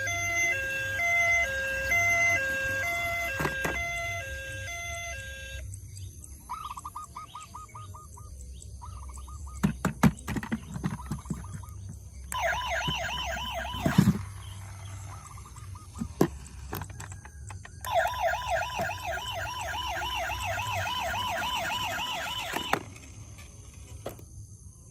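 Electronic toy emergency-vehicle sirens: first a stepped two-tone melody, then several bursts of a fast warbling yelp siren. Sharp clicks and knocks come between the bursts.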